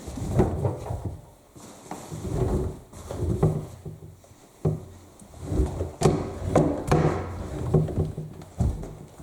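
Laundry being loaded by hand into a front-loading washing machine drum: irregular rustling and soft thuds of fabric, with a few sharp knocks, the loudest about six seconds in.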